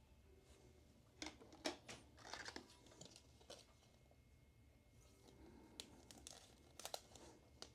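Faint, scattered rustles and light clicks of trading cards and their sleeves and packaging being handled and stacked on a table.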